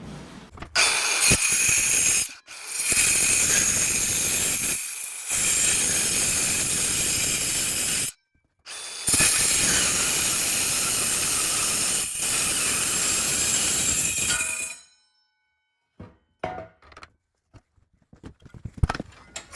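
A metalworking tool running in four long steady hissing stretches with short breaks between them, then stopping, followed by a few light knocks and clicks.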